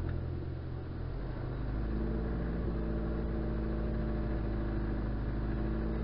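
Rally car's engine running while the car sits stationary, heard from inside the stripped-out cabin. About a second and a half in, the engine note rises slightly and then holds at a steady pitch.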